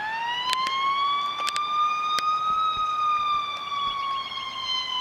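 Ambulance siren wailing: one slow rising and falling tone, climbing to its highest about halfway through and then gradually dropping.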